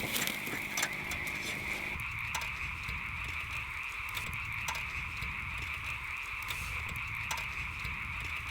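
A chorus of frogs calling steadily, with scattered sharp clicks and a low rumble underneath.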